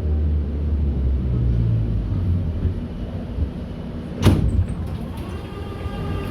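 Inside an 81-717.6 metro car at a station stop: the low rumble of the train dies away as it comes to rest, then a single sharp thud of the pneumatic sliding doors about four seconds in, followed by a faint steady tone.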